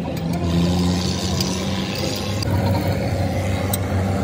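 Steady low engine or motor hum with a noisy wash over it and a few light clicks.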